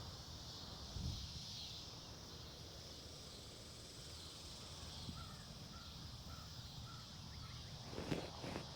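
Woodland ambience: a steady high hiss, typical of insects, over a low wind rumble on the microphone. In the middle a bird calls about five times in quick succession, and near the end there are a couple of louder rustles, like handling or a page being turned.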